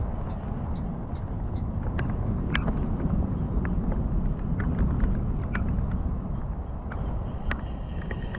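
Rain and wind in a thunderstorm: a steady low rumble of wind on the microphone, with scattered sharp ticks.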